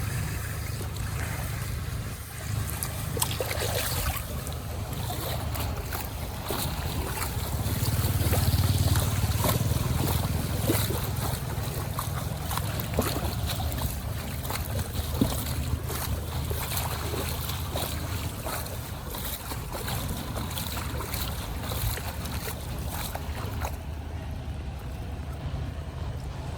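Floodwater splashing and rushing around a clogged storm drain, with many small splashes and clicks over a low rumble of wind on the microphone, growing louder for a few seconds near the middle.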